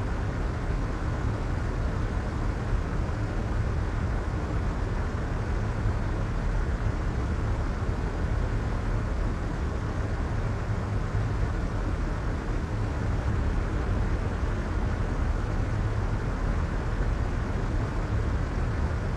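Soft white noise playing steadily: an even, unbroken hiss weighted toward the low end, deep and rumbly with little treble, at a constant level.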